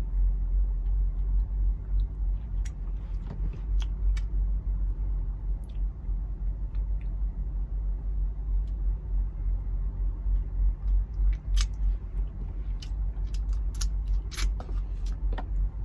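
An avocado being cut and prepared by hand: scattered light clicks and scrapes, more of them near the end, over a steady low hum.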